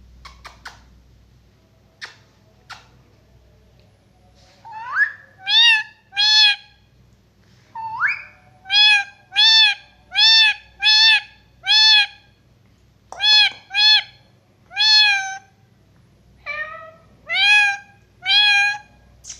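A pet parrot calling: a string of about fifteen short calls, each rising and then falling in pitch, repeated steadily from about five seconds in, after a few faint clicks.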